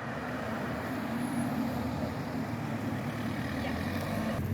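A motor vehicle's engine running steadily, with an even low hum that holds throughout.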